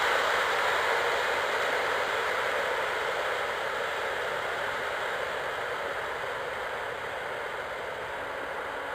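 Steady rushing rail noise of a receding electric-hauled passenger train, its wheels running on the track, fading away gradually.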